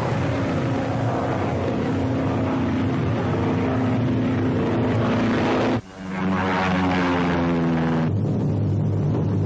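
Propeller engines of twin-engine Douglas troop-carrier transports droning steadily in flight. The sound briefly cuts out about six seconds in and comes back at a lower pitch, then drops lower again about two seconds later.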